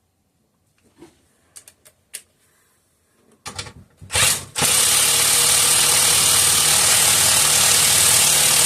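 Cordless impact driver running a long screw into the engine: a couple of light clicks, two short blips about three and a half seconds in, then a steady run of several seconds as it works the screw into a threaded hole that turned out to be a little dirty.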